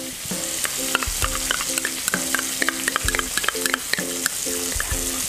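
Onions frying in margarine in a wok: a steady sizzle with scattered light clicks. A short repeating tune runs behind it.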